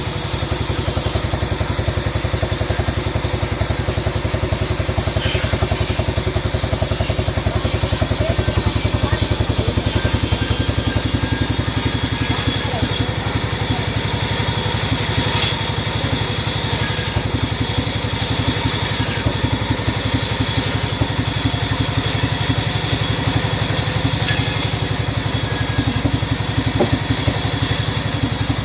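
Sawmill machinery running steadily, with a rapid, even engine-like throb.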